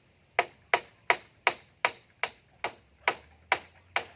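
Hammer striking wood in a steady rhythm, about ten sharp blows at roughly two and a half a second, as a nail is driven into the coop's frame.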